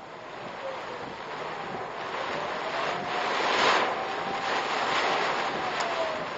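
Typhoon wind gusting around a car, heard on its dashcam: a rushing noise that swells to its loudest a little past halfway. A faint whistling tone rises and falls under it.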